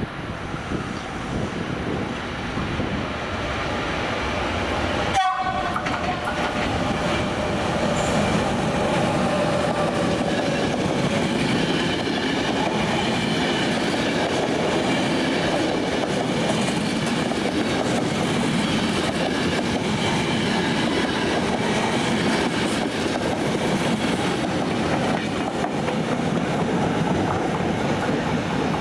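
Passenger trains running through a station: a steady rush of wheels on rail with clatter over the joints as a long rake of coaches goes by, building up over the first few seconds. A train horn sounds briefly after an abrupt cut about five seconds in.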